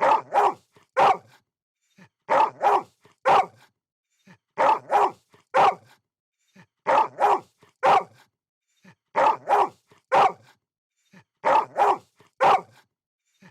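A dog barking in bursts of three or four quick barks, with each burst coming about every two and a quarter seconds at an even pace.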